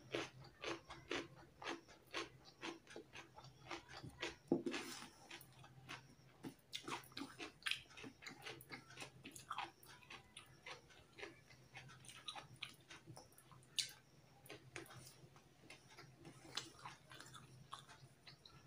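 Close-miked chewing of raw cucumber and rice: many small, irregular crunches and wet mouth clicks, faint.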